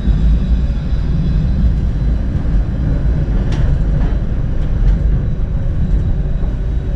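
Tram running along the track: a steady low rumble of wheels and running gear, with a few faint clicks about halfway through.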